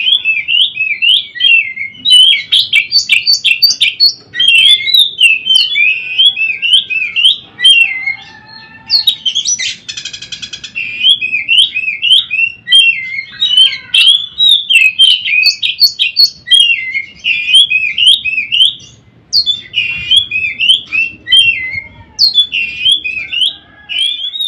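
Oriental magpie-robin (kacer) singing a fast, continuous run of chirps and whistles, with a short harsh buzzing note about ten seconds in and a couple of brief lulls.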